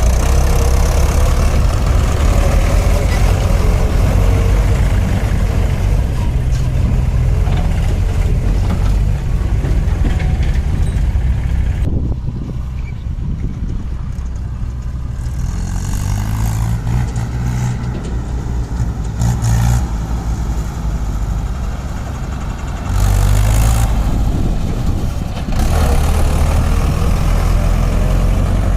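Mahindra 585 DI tractor's four-cylinder diesel engine running while hauling a fully loaded trolley. It is loud for the first twelve seconds or so, quieter through the middle, then louder again near the end.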